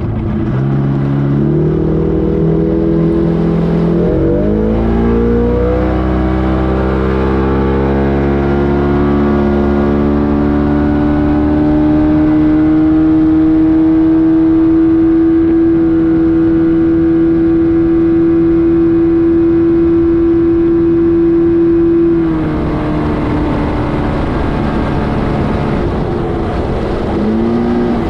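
Bass boat's outboard motor throttled up from low revs, its pitch climbing for about ten seconds with a brief dip about four seconds in. It then runs at a steady high pitch and eases off about twenty-two seconds in.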